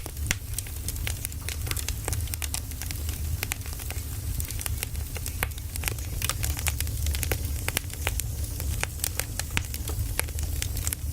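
Firewood burning: continual sharp crackles and pops, several a second, over a steady low rumble of the fire.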